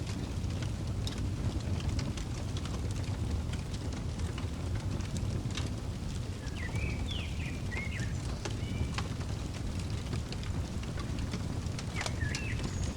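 Crackling fireplace: a steady low rumble of burning wood with scattered sharp pops and snaps. A bird gives a few short chirps just past the middle and again near the end.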